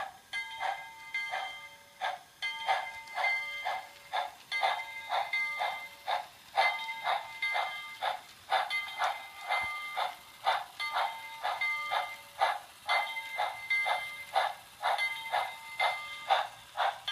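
Locomotive bell ringing steadily, about two strikes a second, each strike ringing out with the same clangy tones.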